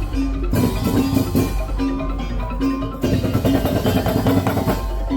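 Madurese tong-tong ensemble playing: a dense, steady rhythm of wooden slit drums and drums, with short pitched notes repeating over it.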